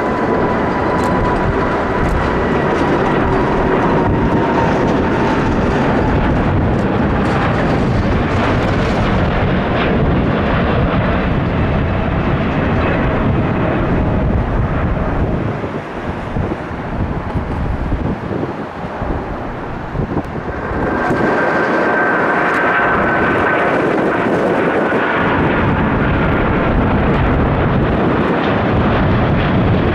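Jet airliner engines running loud at close range, a whine slowly falling in pitch as the aircraft passes. The noise eases briefly past the middle, then a second high whine swells up near the end.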